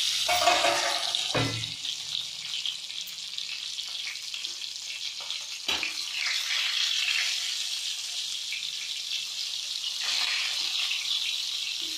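Stuffed brinjals sizzling in hot oil in an iron kadhai, a steady frying hiss that is loudest in the first second. A metal spatula stirs and turns them against the pan, with a sharp knock about a second and a half in and another near the middle.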